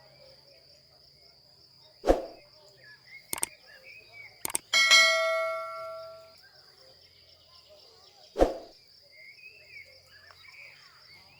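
Metal objects clanking: a few sharp knocks, then one ringing clang with several tones that dies away over about a second and a half, and another knock near the end. A steady high insect buzz and bird chirps run behind.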